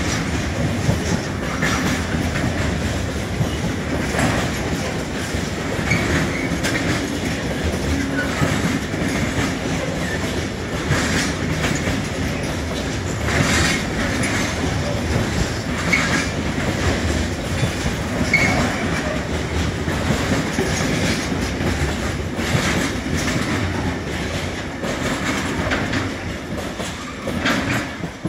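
Freight train of pocket wagons carrying road semi-trailers rolling past at close range: a steady rumble of steel wheels on rail, with irregular clicks as the wheels cross rail joints and brief faint wheel squeals. The sound falls away near the end as the last wagon passes.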